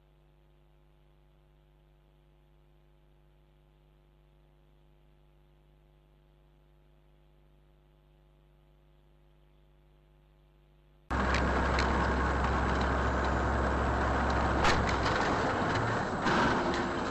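A faint steady hum, then about eleven seconds in a sudden cut to a loud motor vehicle driving, with deep engine and road rumble and a sharp click a few seconds later.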